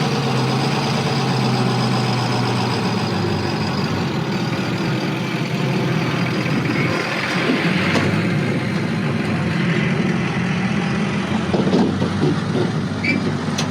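Truck engine idling steadily, with a few light clicks and knocks over it later on.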